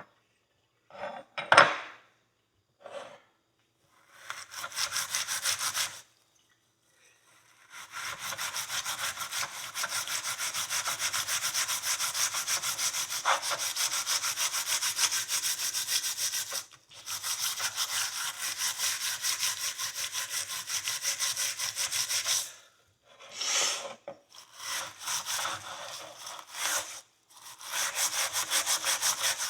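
Steel wool scrubbing a steel horseshoe in fast back-and-forth strokes, in long spells with short pauses and shorter bursts near the end. A sharp knock comes about a second and a half in.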